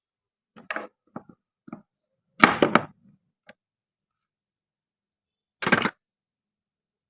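Toy fruit being cut and handled with a toy knife: a few small clicks and knocks, then two louder, short scraping cuts about two and a half and five and a half seconds in.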